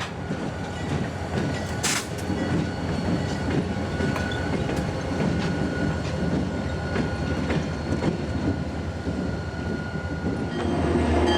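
Freight train rolling past: a steady rumble of wheels with irregular clicks over the rail joints and a thin, faint squeal. Near the end it grows louder, with a low steady hum coming in.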